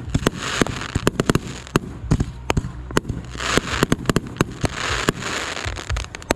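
Fireworks going off: a rapid, irregular string of sharp bangs and crackles, with three bursts of hissing crackle mixed in.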